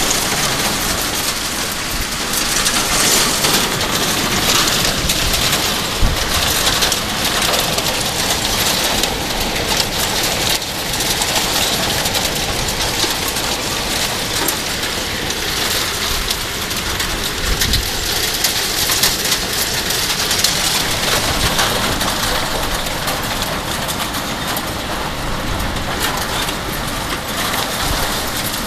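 Heavy rain pouring down in a storm: a steady hiss that swells and eases, with a few low thumps.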